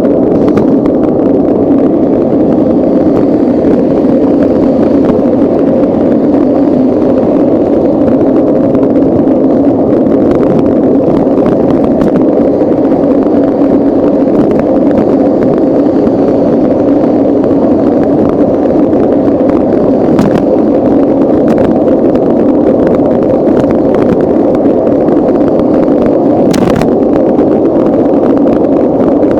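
Steady, muffled rush of wind and rolling noise on a camera riding along on a bicycle, with a couple of faint clicks from bumps.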